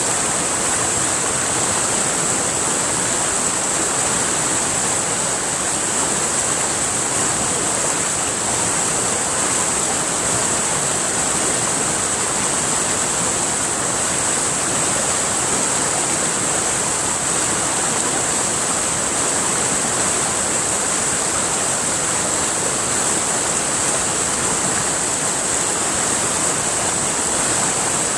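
River water rushing in a steady, unbroken flow, with a bright hiss on top.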